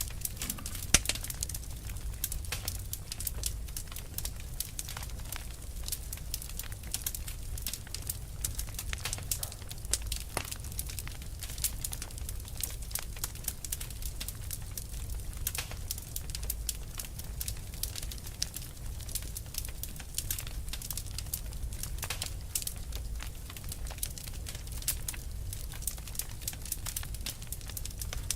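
Fire burning with dense, irregular crackling and popping over a steady low rumble, one louder pop about a second in.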